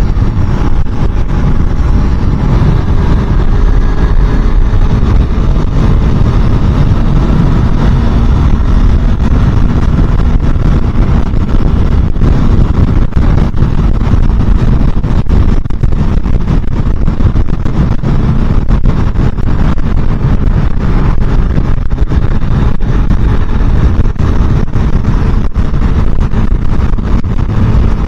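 Motorcycle engine running at road speed under wind rush on the microphone, a loud steady rumble whose faint engine note drifts up and down a little as speed changes.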